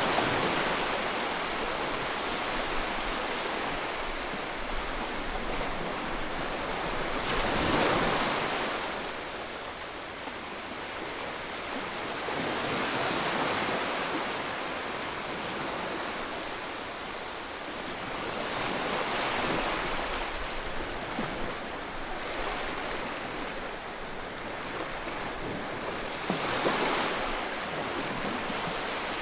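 Ocean waves breaking and washing on the shore in a continuous surf, with a surge of a breaking wave every five to eight seconds.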